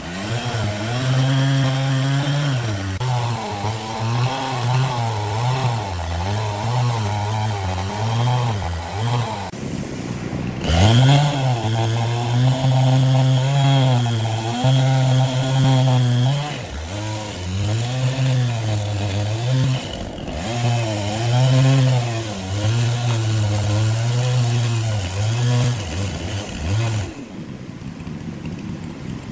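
Engine-driven saw running at high speed, its pitch sagging and recovering again and again as it takes load in the wood. The sound breaks off abruptly about 10 and 20 seconds in, and it stops about 27 seconds in.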